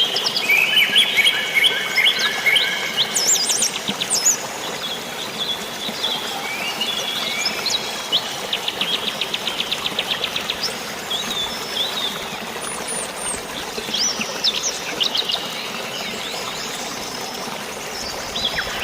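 Several birds chirping and trilling over a steady hiss of flowing water or rain, with one rapid trill of evenly spaced notes about eight seconds in; the calls are busiest at the start.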